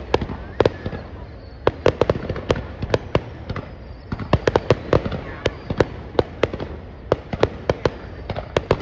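Fireworks going off, a fast, uneven series of sharp bangs, several a second at times, over a steady rumble.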